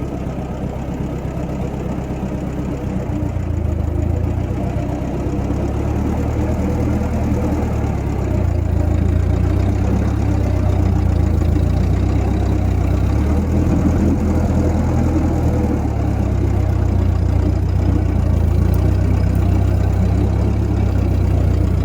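1956 Massey Ferguson F40 tractor's four-cylinder engine running steadily under load as it strains to drag a heavy tire on a line. It grows louder about four seconds in and again about eight seconds in.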